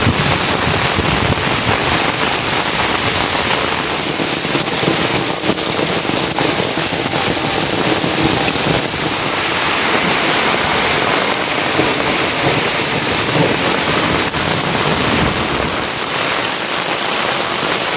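Heavy rain falling steadily: a dense, even hiss with many small drop impacts on a surface.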